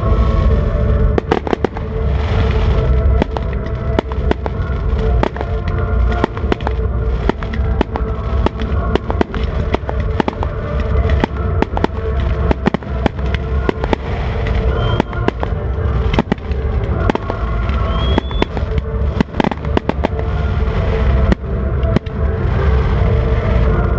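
Fireworks display: a dense run of bangs and crackling shell bursts with deep booming, over music played over loudspeakers. Two short rising whistles sound about halfway through.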